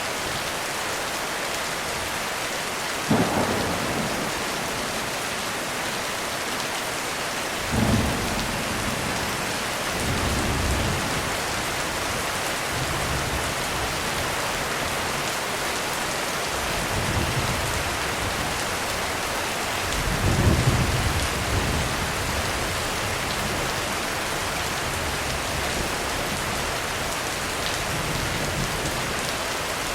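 Heavy rain falling steadily on a roof, with thunder. Sharp claps come about three and eight seconds in, followed by rolling rumbles, the loudest about twenty seconds in.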